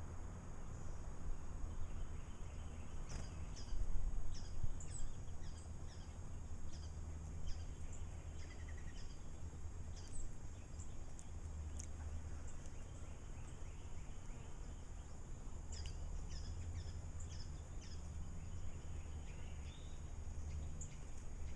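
Small birds giving many short, high chirps at irregular intervals over a steady low rumble, with a faint steady high whine.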